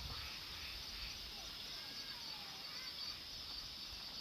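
Night chorus of insects, a steady high-pitched chirring, with a few faint short frog calls from the pond.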